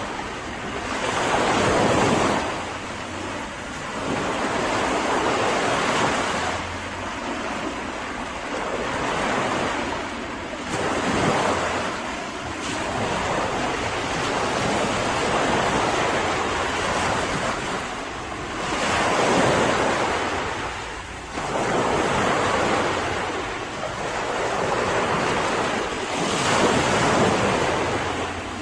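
Sea waves breaking and washing up on a beach, the surf swelling and falling back every few seconds.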